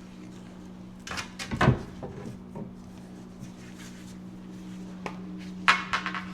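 Wooden stakes being handled, knocking and clattering against each other in a few short bursts, about a second in and again near the end, over a steady low hum.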